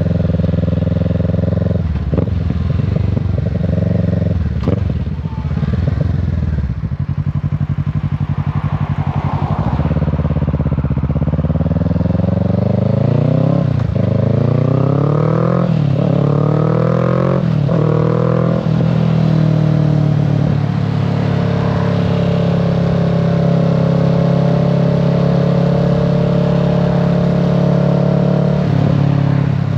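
Kawasaki Z650's parallel-twin engine and exhaust on the move: it slows and drops in pitch early on, then accelerates with the pitch rising and falling back at each upshift several times around the middle, and settles into steady cruising for the rest.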